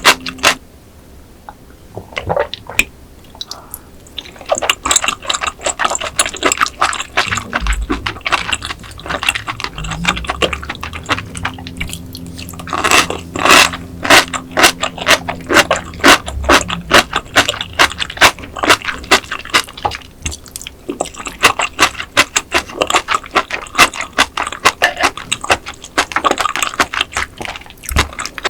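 Close-miked wet chewing and mouth smacking of raw giant rock oyster in a vinegar dressing: a fast, irregular run of moist clicks and squelches, quieter for a couple of seconds near the start.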